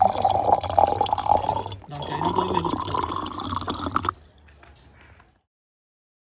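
Water being poured into a glass, the pitch rising as the glass fills. It breaks off briefly about two seconds in, resumes, and stops sharply a little after four seconds. The glass holds absorbent from diapers, which will set the water into 'instant ice' gel.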